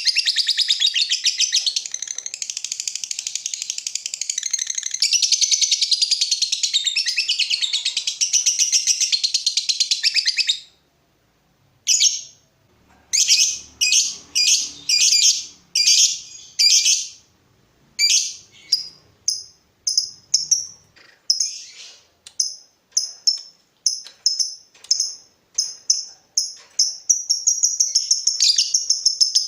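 Lovebird's long, rapid chattering trill (the 'ngekek' call). It breaks off about ten seconds in for a moment of silence, then comes back as separate short chirps that quicken into a run of fast ticking notes and merge into the continuous trill again near the end.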